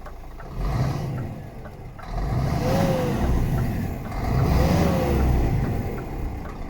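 Scania R500 truck's 13-litre inline-six diesel revved from idle three times: a short blip, then two longer, stronger revs, each with a faint whine that rises and falls.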